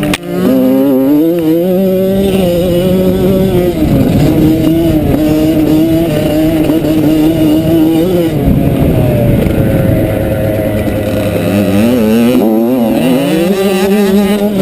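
Motocross bike engine running hard under changing throttle. Its pitch rises and falls several times: it drops around four seconds in, climbs again after about eight seconds, dips near twelve seconds and rises once more near the end.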